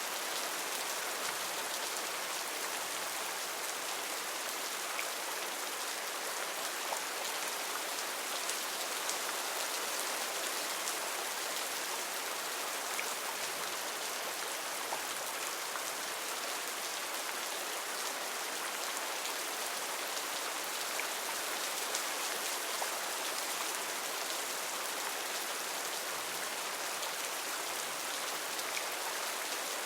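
Heavy rain falling steadily in a rainforest: a dense, even hiss with scattered individual drop splashes.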